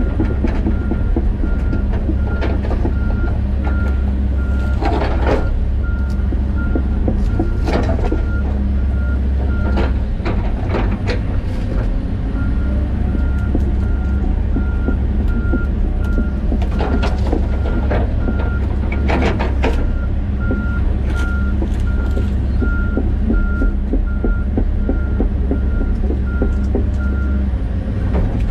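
John Deere 130G excavator's diesel engine running steadily while its travel alarm beeps about twice a second, pausing briefly about ten seconds in and stopping near the end. Sharp clanks and cracks from the bucket and breaking brush and roots come at intervals.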